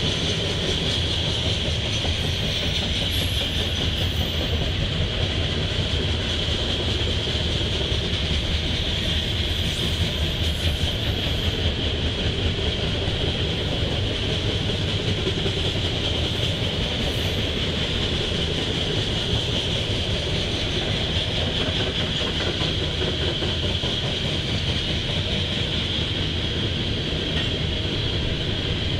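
Loaded coal cars of a freight train rolling past: a steady rumble of steel wheels on the rail with a high, steady hiss over it.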